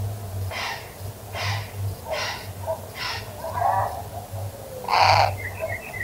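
A bird's harsh, raspy calls, four in a row about once a second, then a louder one about five seconds in.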